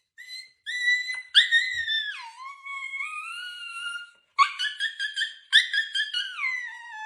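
A dog whining in a string of long, high-pitched cries that slide about and fall in pitch toward their ends.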